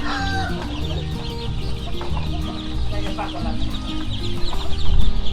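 A flock of chickens clucking and cheeping, with background music of held notes playing underneath.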